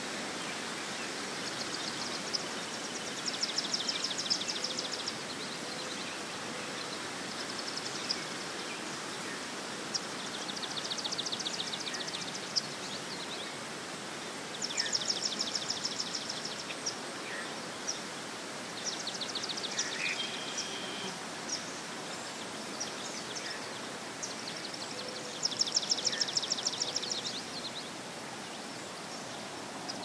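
A songbird singing a high, rapid trill over and over, about five times, each trill about two seconds long, with short single notes in between. Under it runs a steady outdoor hiss.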